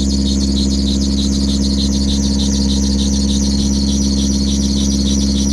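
Car engine idling steadily on a cold start in freezing weather, with a continuous high-pitched squeal over it.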